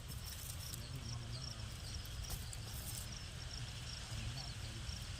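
Steady low rumble with a short, high chirp repeating about twice a second, like an insect calling.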